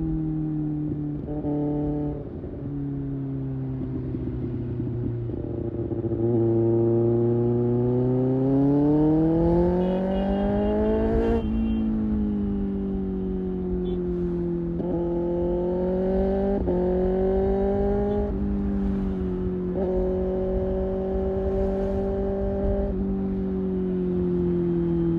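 2024 Kawasaki ZX-6R's inline-four engine under way. The revs climb steadily for several seconds, then drop sharply about halfway through at a gear change. The pitch then changes quickly a few more times before holding steady at cruise.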